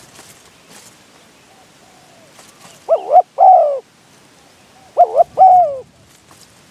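Spotted dove cooing: two loud phrases about two seconds apart, each a short double coo followed by a longer falling coo, with fainter coos in between.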